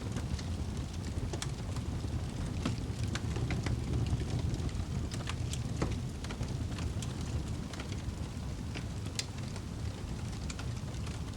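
Fire burning in a fireplace: a steady low rumble with sharp crackles and pops at irregular moments.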